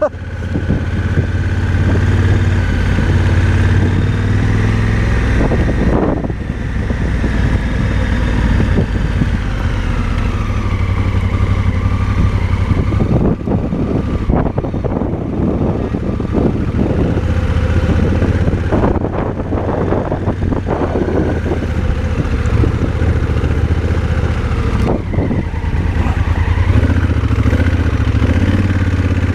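Motorcycle engine running steadily while riding a dirt road, with scattered knocks and clatter from the rough surface.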